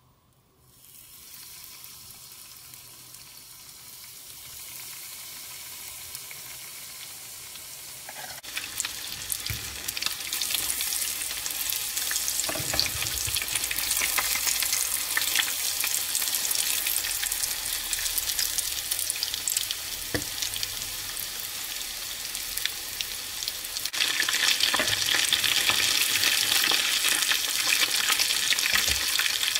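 Breaded and battered onion rings frying in shallow hot oil in a frying pan: a steady sizzle that begins about half a second in and grows louder in steps, around eight and twenty-four seconds in, as more rings go into the oil. A fork turning the rings adds an occasional light tap.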